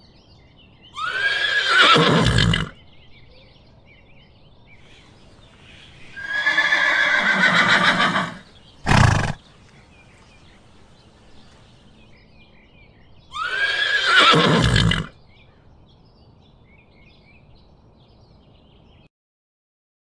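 A horse neighing three times, each whinny a long call that starts high and falls away, with a short sharp burst between the second and third.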